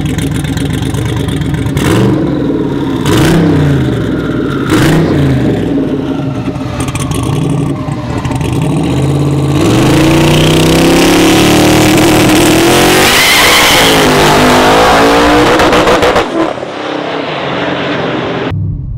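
Turbocharged LS V8 truck engine revved in a few short blips. It is then held at rising high revs for several seconds, with a turbo whistle near the top, before dropping off abruptly.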